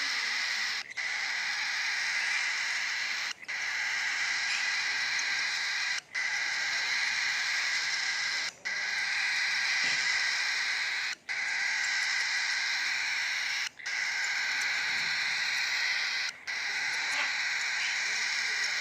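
Cockatiel chick's food-begging call during feeding: a steady, noisy call that breaks off briefly about every two and a half seconds.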